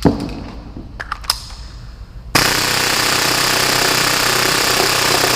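A few sharp clicks and knocks, then about two seconds in a full-auto HPA Tokyo Marui Hi-Capa airsoft pistol opens up at 30 rounds a second. It fires one continuous, even burst lasting about three and a half seconds.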